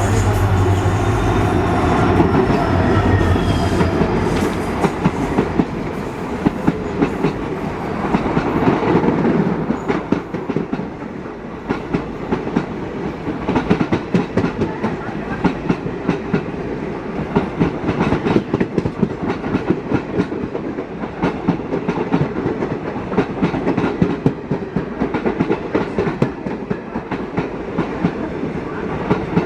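A train running on the rails: a steady rumble with the wheels clicking rapidly and unevenly over the rail joints. Some higher tones fade away in the first few seconds.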